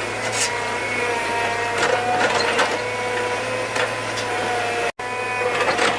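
A small motor running steadily with a whine, a low hum under it and irregular sharp ticks or knocks, cut off for a moment about five seconds in.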